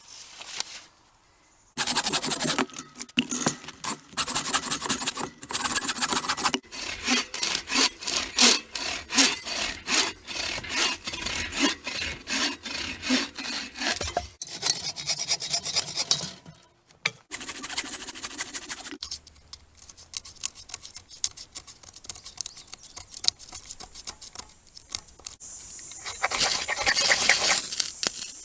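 Hand saw cutting through a green-wood branch in fast, even back-and-forth strokes, stopping and starting again a few times, with a last short run of strokes near the end.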